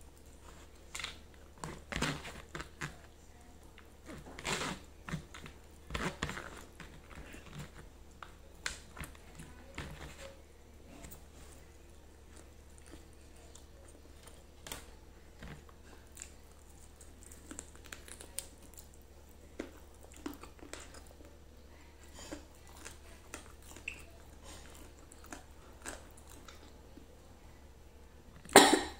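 Close-miked chewing and biting while eating ayam bakar (Indonesian grilled chicken) by hand: irregular wet mouth clicks and smacks, with a louder burst near the end.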